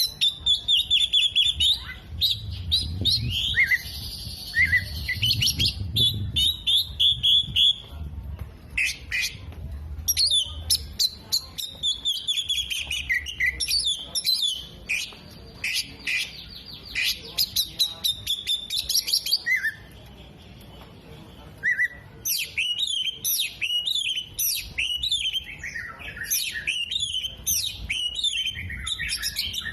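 Oriental magpie-robin (kacer) singing vigorously, a fast and varied run of whistles, rapid trills and chattering mixed with mimicked calls of other birds, with a brief lull about two-thirds of the way through.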